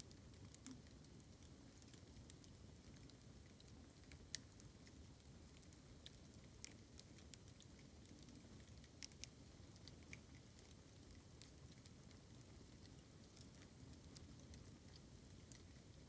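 Bamboo burning in a bonfire: faint crackling with scattered small pops, and one sharper pop about four seconds in.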